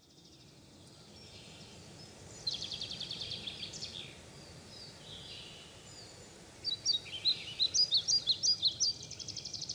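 Songbirds chirping and trilling over a soft background hiss, fading in from near silence. A trill comes about two and a half seconds in, and a quick run of chirps, about five a second, follows from about seven seconds in.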